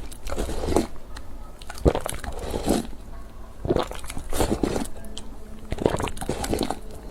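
Close-miked eating sounds: biting, chewing and crunching food, in irregular bites about once a second.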